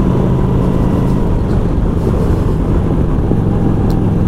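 V-twin chopper motorcycle engine running at a steady cruise, heard from the rider's seat with wind rushing over the microphone. The engine note sags slightly about halfway through, then holds.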